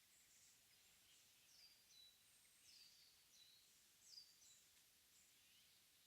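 Faint high-pitched calls of small wild birds: short notes sliding down in pitch, about two a second, some overlapping, over a soft steady hiss.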